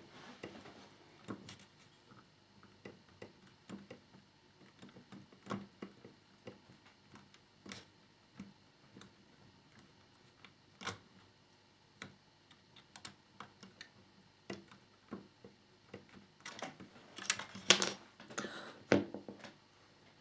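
Scattered light clicks and taps of small plastic model parts and screws being handled, with a busier run of louder clicks near the end.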